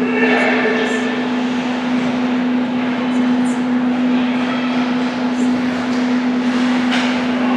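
Ice rink ambience during a hockey game: a steady low hum throughout under a general din of distant voices, with scattered short high-pitched scrapes.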